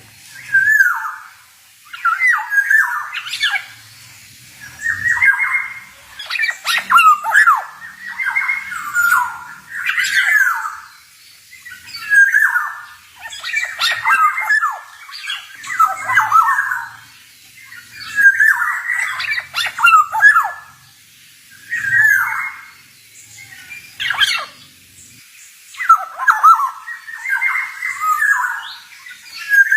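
Male black-naped oriole singing a long string of short, varied phrases, one every one to two seconds with brief pauses between them, some with sharp, clipped notes.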